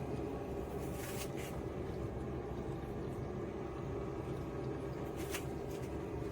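A small 1/6 HP submersible utility pump running steadily, a motor hum made of several steady tones. Brief hissing splashes come about a second in and again near the end.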